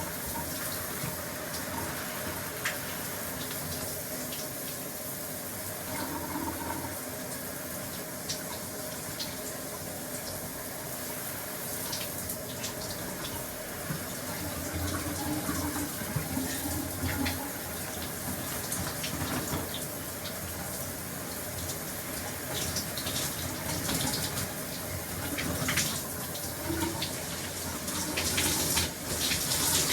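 Shower running in a small room: a steady hiss of spraying water with scattered splashes and spatters, which grow busier and a little louder in the last several seconds.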